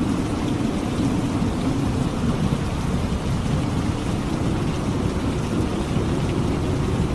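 Steady heavy rain of a thunderstorm, with a low rumble of thunder underneath that eases off towards the end.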